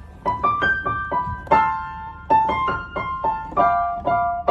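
Piano playing a melody of single struck notes, several a second, each ringing on as it fades.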